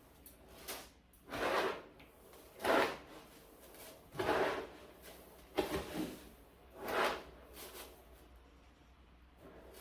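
Cat litter being worked in a litter box: about seven short scraping swishes, one every second or so.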